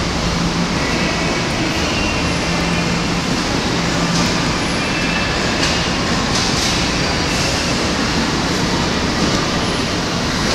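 Steady train noise heard on a railway station platform, with a low hum that comes and goes and a few light clicks in the middle.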